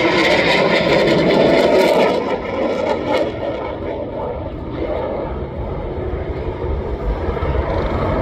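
Aircraft flying past, its engine noise loudest in about the first two seconds and then fading to a steady, lower rumble.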